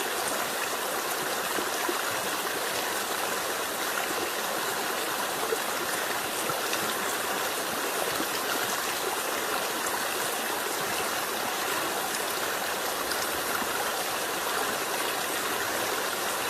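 Flowing water rushing steadily, with small splashy ticks scattered through it.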